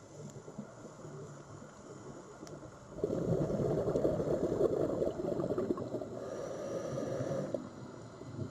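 Sea waves washing, a noisy rush of water that swells louder about three seconds in and falls back near the end.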